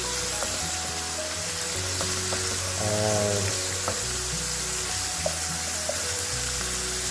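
Marinated chicken pieces and onions frying in hot oil in a pot: a steady sizzle, with a few light clicks.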